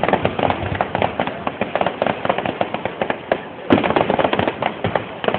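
Fireworks going off in rapid succession: a dense crackle of many quick bangs, with a louder bang about three and a half seconds in.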